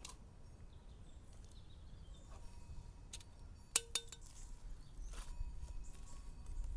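Two sharp clinks of hard kitchenware knocking together, about four seconds in, the first ringing briefly, over a low rumbling outdoor background.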